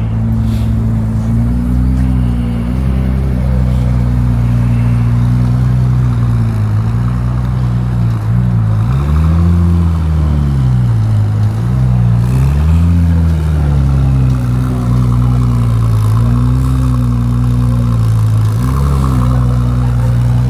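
A car engine running loud and deep at idle, revved up and let back down twice about halfway through.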